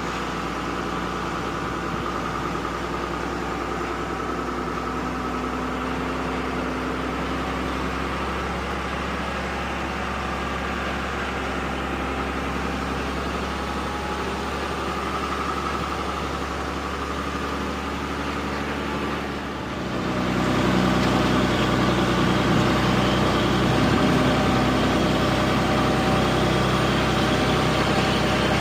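Truck engine running steadily, then, after a brief dip about twenty seconds in, running louder with a changed note.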